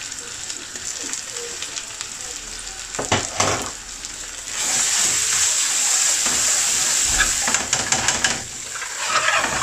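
Onion and tomato masala frying in an aluminium pan, with a metal spoon stirring in a spoonful of masala paste. The sizzle grows much louder about halfway through as the paste is stirred into the hot oil.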